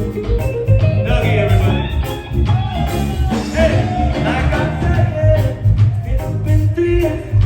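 A live reggae band playing, with drums and bass keeping a steady beat and guitar, keys and a melody line over them.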